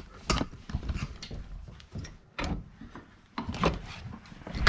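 Irregular knocks and clicks of handling and moving about, with louder knocks about a third of a second in and near the end.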